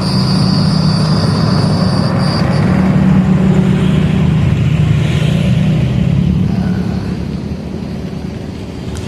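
An engine running with a steady low rumble that swells and then gradually fades over the last few seconds.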